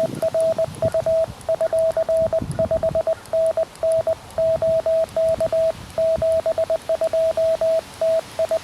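Morse code (CW) tone from a QRP Labs QMX transceiver: a single steady mid-pitched tone keyed on and off in dits and dahs at an even sending speed.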